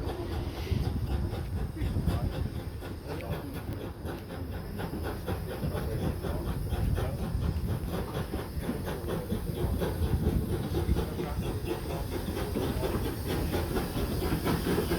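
Steam train hauled by the Buffaud-Robatel 031T tank locomotive No. 3714 on the run, a steady rumble of wheels on rail with rapid clicking and a hiss of steam that grows louder near the end.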